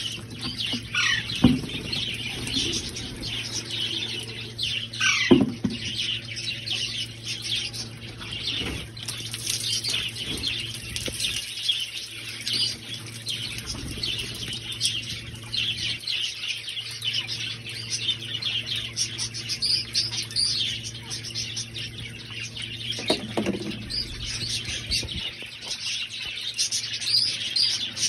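Pet parrots chirping busily and continuously, with three louder falling calls, one about a second in, one about five seconds in, and one near the end.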